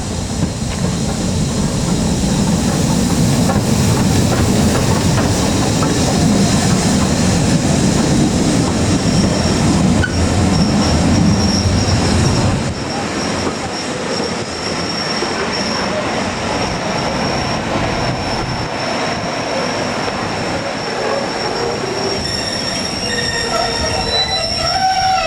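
Heritage railway carriage running on the rails, heard from on board: a heavy low rumble that eases about twelve seconds in, and a high, steady wheel squeal that sets in about nine seconds in and continues, with more squealing tones near the end.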